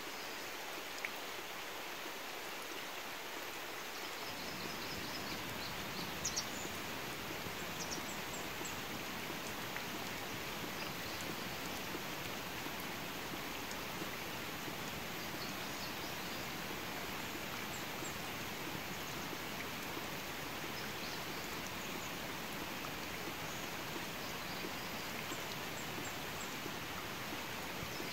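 Steady rain falling on the water of a flooded rice paddy, an even hiss of drops. A few faint high chirps come through now and then.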